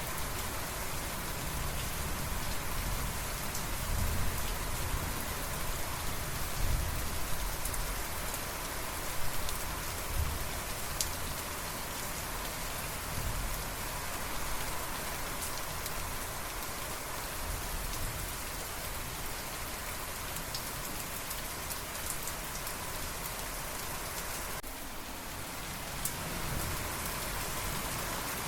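Steady rain falling in an even hiss, with low rumbles of thunder in the first ten seconds or so and again near the end.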